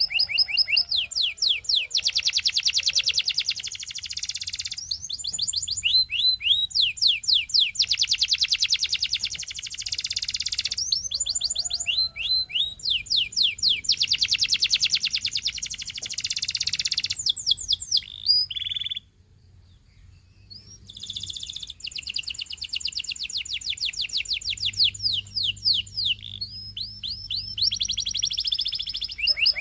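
Domestic canary singing: long rolls of fast trills made of rapidly repeated falling notes, changing speed from tour to tour, with a brief pause a little over halfway through.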